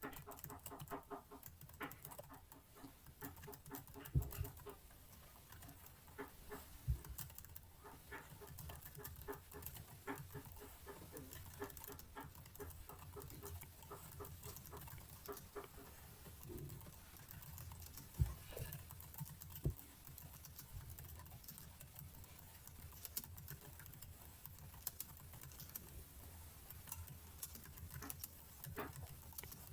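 Computer keyboard typing: irregular, fairly faint key clicks throughout, with a few heavier thumps.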